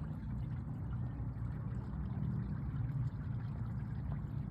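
Steady low rumble with faint water trickling and lapping, typical of river water against a paddleboard.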